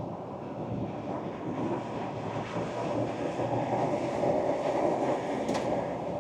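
Ford Ranger Wildtrak pickup driving: a steady rumble of tyres and engine that grows a little louder through the middle, with a single sharp tick about five and a half seconds in.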